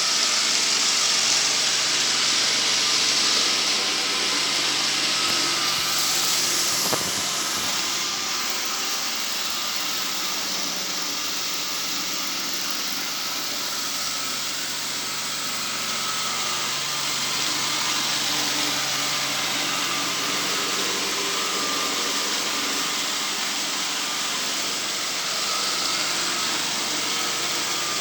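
Engine-driven sweeping machine running steadily: a continuous rushing air noise over a small engine's hum, easing slightly about seven seconds in.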